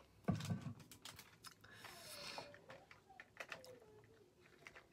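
Scattered light clicks and taps of small objects being handled, with a soft thump about a third of a second in.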